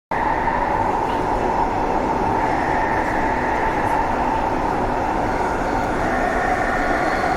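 Passenger train running at steady speed, with a steady rush and rumble and a whine held at a steady pitch. It cuts in suddenly at the start.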